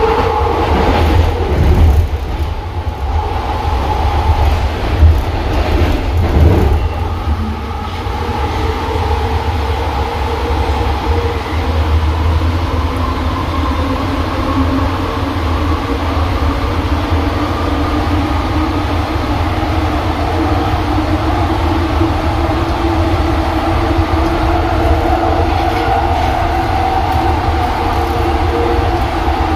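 AirTrain JFK car, a Bombardier linear-induction-motor train, running along its elevated guideway, heard from inside the car. A steady low rumble carries several whining tones that slowly drift in pitch, with a few louder jolts in the first seven seconds.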